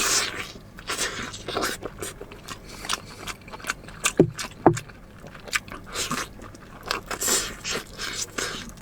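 Close-miked eating: irregular bites, crunches and chewing, mixed with utensils scraping. Two louder, dull thuds come a little past the middle.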